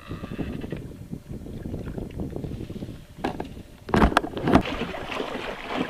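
Knocks and bumps on a plastic sit-on-top fishing kayak, with water and wind noise underneath; a cluster of louder knocks comes about four seconds in.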